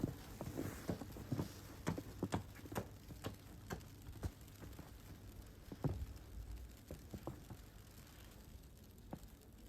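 Footsteps on snow, about two a second, thinning to a few scattered steps after about six seconds.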